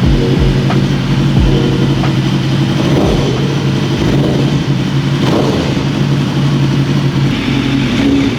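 Superbike engine running at a steady idle, with brief throttle blips about three and five seconds in.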